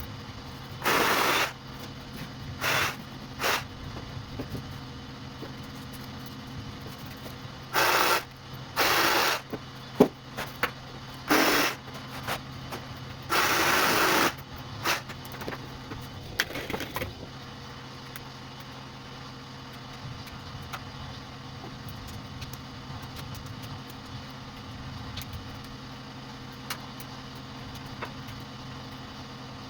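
Wire stripping machine running with a steady hum, with about eight loud, harsh bursts of a half to one second each in the first half as copper welding lead is fed through and its insulation is slit; after that only the hum continues.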